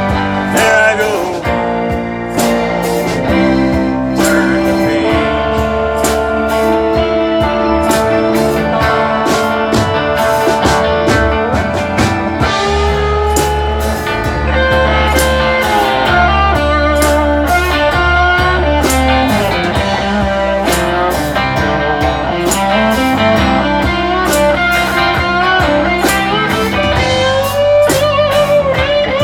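Live band playing an instrumental break in a rock song: drums keeping a steady beat, bass notes underneath, and a lead instrument playing a melody of held, bending notes.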